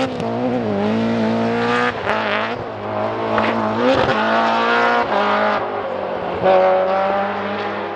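Rally car engine running hard, its pitch rising and falling with the throttle, with a few sharp cracks along the way. It cuts off suddenly at the very end.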